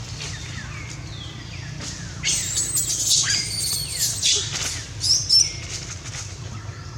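A run of loud, high-pitched animal calls, squeals that slide down in pitch, crowded together from about two seconds in until past five seconds, over a steady low hum.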